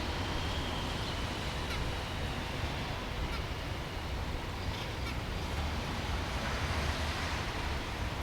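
Budgerigar chirping softly, with a few light clicks, over a steady low hum.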